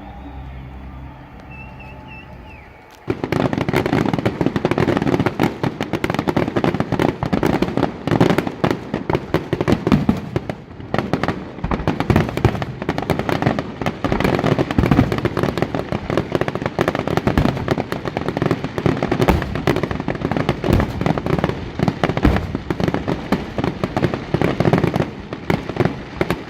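Fireworks going off in a dense, rapid barrage of bangs and crackles that starts suddenly about three seconds in and keeps going without a pause.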